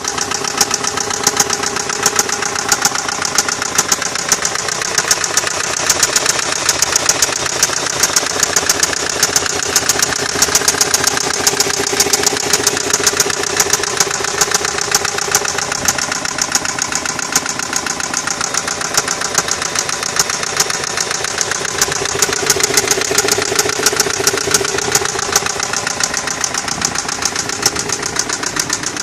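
2002 Nissan Maxima's 3.5-litre V6 idling with a loud, rapid, regular knock. The owner's tags put it down to the engine running without oil and name the timing chain and lifters as suspects.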